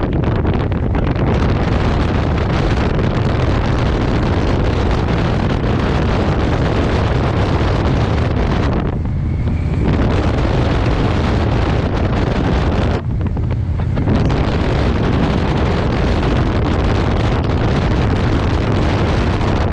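Loud, steady wind rush buffeting the microphone of a motorcycle riding at speed, with the bike's running noise underneath. It eases briefly about nine and again about thirteen seconds in.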